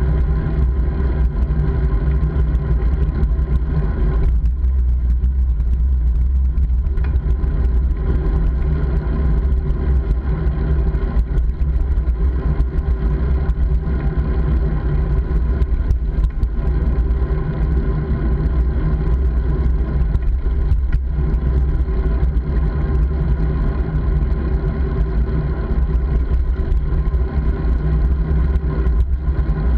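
Motorcycle engine running at a steady cruising pace for the whole stretch, a constant hum with wind noise rushing over the microphone.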